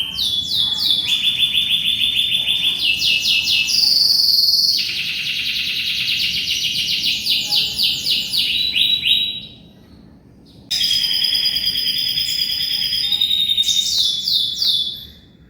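Canary singing a long run of rapid trills and rolling phrases, pausing for about a second partway through before starting again.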